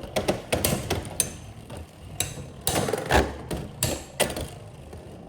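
Two Beyblade X spinning tops (Silver Wolf 1-60 Rush against Hover Wyvern 9-60 Kick) clashing in a plastic stadium, giving sharp irregular clacks. The hardest hits fall a few seconds in, and the clashing thins out near the end as Hover Wyvern loses spin.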